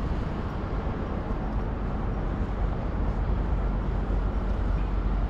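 Steady street noise heard from a moving bicycle: wind rumbling on the microphone, mixed with city traffic.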